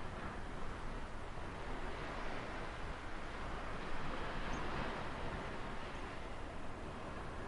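Ocean surf washing on a shore, a steady rush of waves that swells a little about halfway through.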